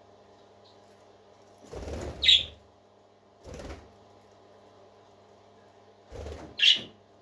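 A parakeet gives two short, sharp chirps, each just after a brief scuffling rustle, with a third, softer rustle between them. A steady low hum runs underneath.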